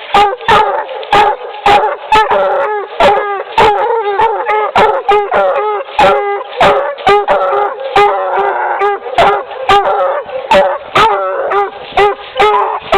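Two young Bluetick Coonhound pups barking and bawling at a tree in quick, overlapping barks, about two a second: treeing, the sign they have run a dragged scent trail to its end.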